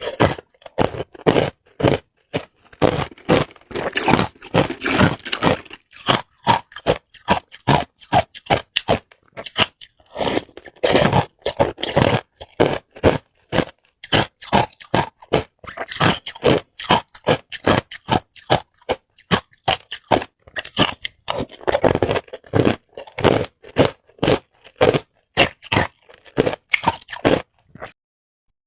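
Hard ice cubes crunched and chewed close to the microphone: a rapid, irregular run of sharp cracks and crunches, several a second, with a brief pause near the end.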